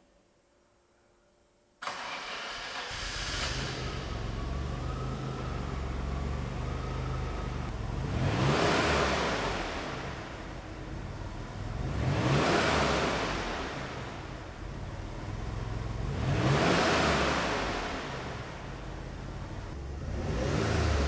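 Maserati Biturbo 2.24V's twin-turbo V6 cold-starting: it catches suddenly about two seconds in and settles into a fast idle. It is then revved four times, each rev rising and falling back over a couple of seconds.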